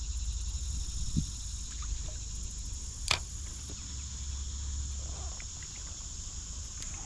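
Steady, high-pitched insect chorus of summer crickets or katydids, with a low rumble beneath it and a couple of brief clicks, the sharpest about three seconds in.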